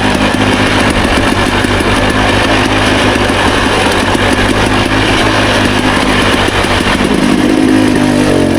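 Dirt bike engine running steadily on the trail, its pitch shifting slightly near the end.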